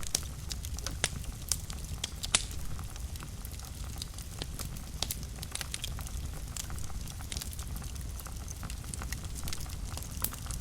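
Wood fire burning in a fireplace, with frequent sharp crackles and pops over a steady low rumble. The loudest pops come in the first few seconds.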